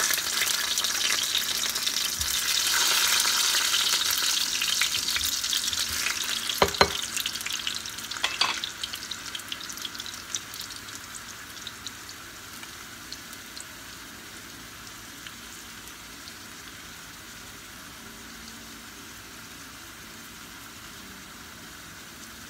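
Sweet potato slices frying in a pan, sizzling loudly after being flipped and settling about halfway through to a quieter, steady sizzle. Two sharp knocks stand out about a third of the way in.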